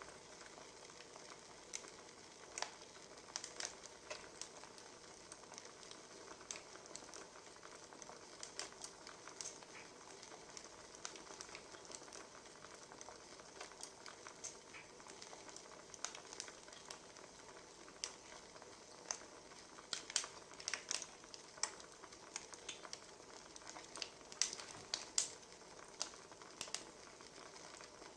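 Wood fire crackling: irregular sharp pops and snaps over a soft steady hiss, with a few flurries of louder pops.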